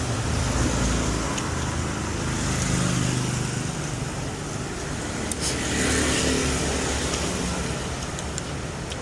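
Road traffic: vehicles passing, the rumble swelling and fading several times.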